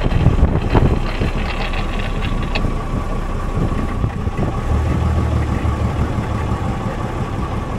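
Old bus engine running, heard from inside the cabin: a steady low rumble with a thin steady whine above it, deepening into a stronger drone for about a second and a half past the middle.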